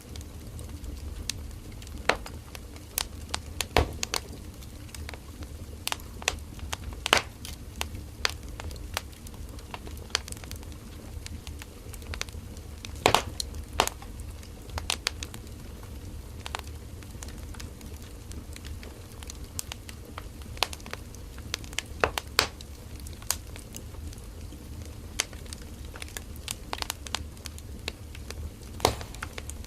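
Firewood burning in an open fire, crackling with irregular sharp pops and snaps over a low steady rumble of the flames.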